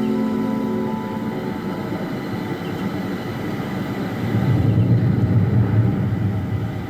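Engine noise of a passing aircraft: a steady rumble that swells about four seconds in and eases off near the end, as guitar music fades out at the start.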